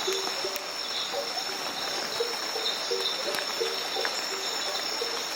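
Night rainforest insect chorus: a steady high-pitched drone with pulsing chirps, and short low notes repeating every few tenths of a second through it.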